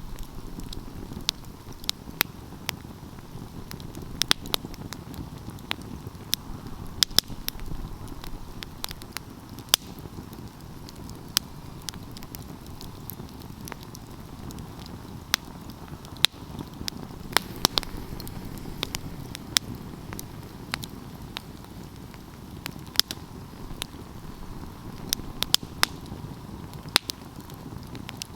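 Wood fire burning with a steady low rush of flame and irregular crackles and sharp pops of burning logs, several louder snaps scattered throughout.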